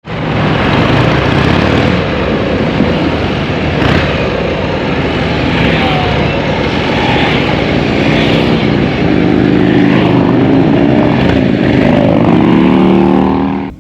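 Harley-Davidson V-twin motorcycle engine running loud, revving up and down in the second half, then cutting off abruptly.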